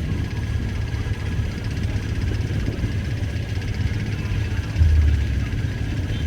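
Steady low rumble of a fast passenger boat's engines, with a faint steady whine above it and a louder low surge about five seconds in.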